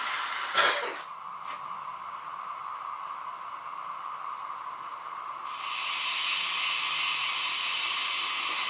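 H0-scale model trains running on a layout: a steady hissing, cut by a short sharp burst about half a second in, with a broader hiss coming back from about five and a half seconds.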